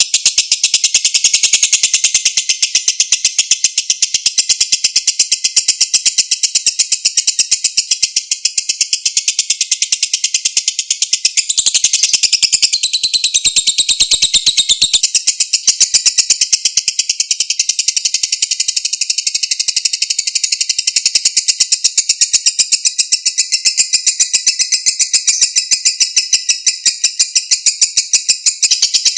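Lovebird singing its 'ngekek': one long, unbroken run of rapid, high-pitched chattering trills, shifting briefly higher about halfway through.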